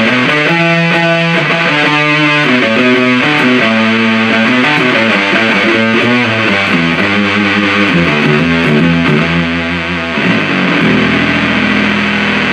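Electric guitar played through the 77 Fuzz Blender, a Big Muff-style fuzz pedal, into an Orange amplifier: a heavily fuzzed riff of changing low notes, settling into a held chord near the end.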